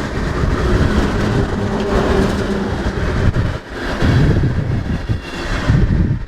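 Norfolk Southern freight train running past, a steady loud rumble of the wheels and cars.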